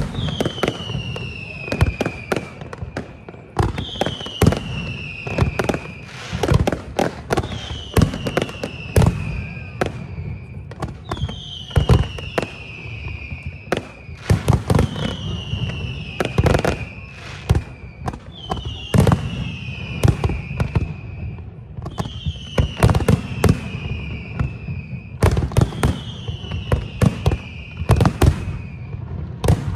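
Fireworks display: a dense run of bangs and reports, with a falling whistle recurring about every four seconds, eight times in all.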